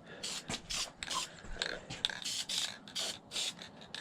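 Aerosol spray paint can giving a string of short hissing bursts, about three a second, as a coat of paint goes on engine parts.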